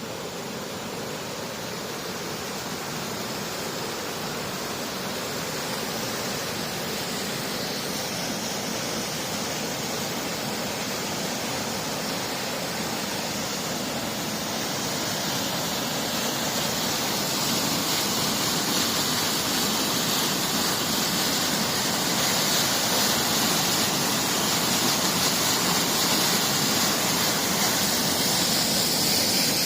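Rushing water of a stream or river, a steady noise that grows slowly louder.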